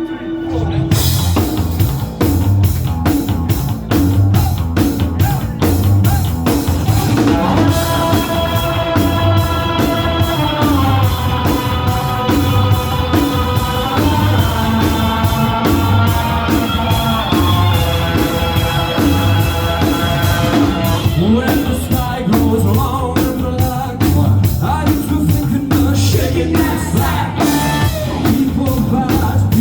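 Rock band playing live: a steady drum-kit beat and electric guitars kick in together about a second in, with singing and long held notes over the middle of the passage.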